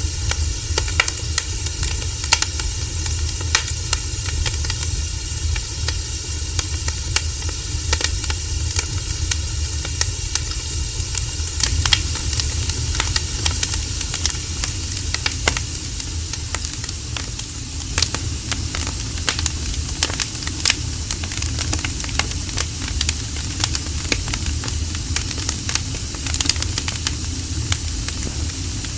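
Wood fire crackling, with frequent sharp pops and snaps over a steady low rush. The higher hiss changes texture about twelve seconds in.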